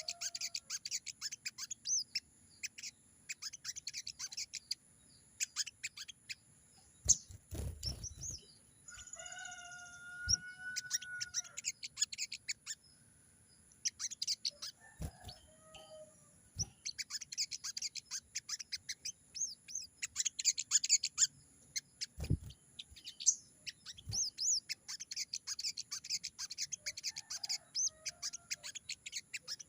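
Little spiderhunter (sogok ontong) calling: long runs of rapid, high-pitched chirps broken by short pauses. A lower, drawn-out call is heard about nine seconds in, and a couple of dull thumps.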